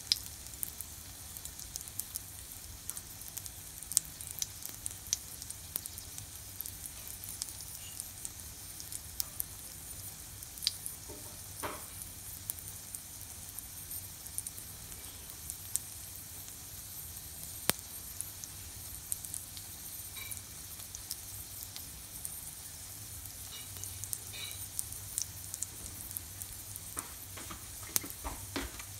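Scallion pancake frying in shallow oil in a pan: a steady sizzle with frequent sharp pops and crackles of spitting oil.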